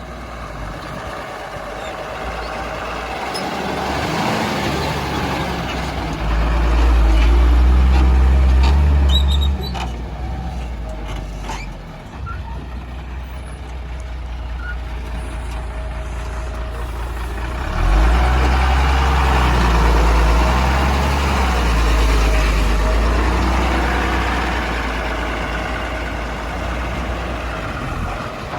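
Heavy diesel engine of a backhoe loader at work, revving hard under load for a few seconds about six seconds in and again for most of the second half, with steadier running between. A few short knocks come in the lull.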